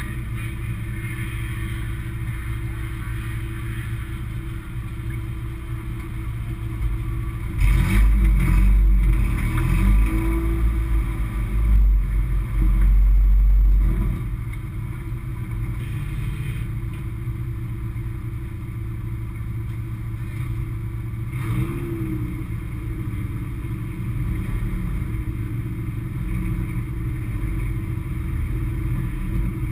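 Race car's engine idling, heard from inside the stripped-out cabin. About a quarter of the way in it revs up hard for several seconds, then drops back to idle, with a shorter rev near two-thirds of the way in.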